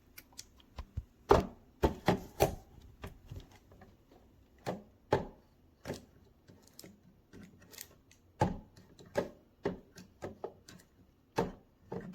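Irregular clicks and knocks of hard plastic as a small ultrasonic humidifier's filled water tank and base are handled and fitted together.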